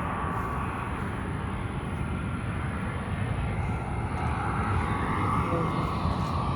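Airbus A319 jet airliner on approach to land: a steady jet-engine rumble with a faint high whine, slowly growing louder as the plane comes nearer.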